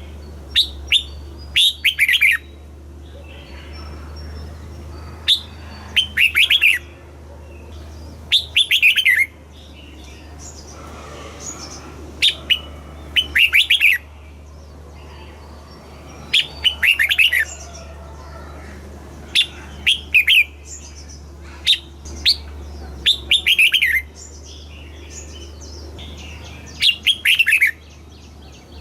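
Red-whiskered bulbul singing: short phrases of quick, falling whistled notes, repeated about every three seconds, over a steady low hum.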